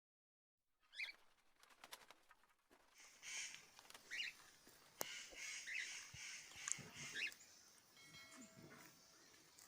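Birds calling faintly outdoors, a few short calls after a silent first second.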